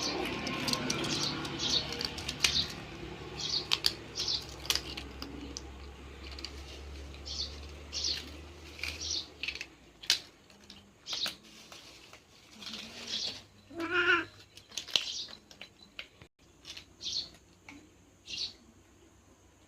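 Cats crunching crisp crackers, with sharp crackles and short high chirps scattered throughout and one drawn-out meow about two-thirds of the way in. A low hum underneath fades out about halfway.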